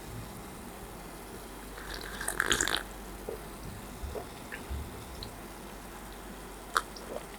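Close-miked eating sounds: a short cluster of wet chewing and mouth noises about two seconds in, then a few scattered soft mouth clicks.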